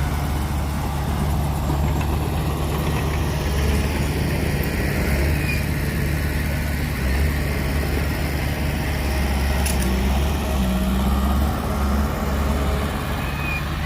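Heavy diesel engine of earthmoving machinery running steadily, a low, even engine note.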